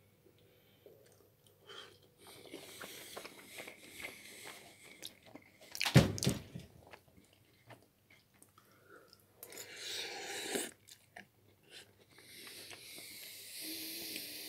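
Close-up chewing and mouth noises of a person eating a spoonful of lentil and macaroni stew, with small wet clicks. One loud thump about six seconds in.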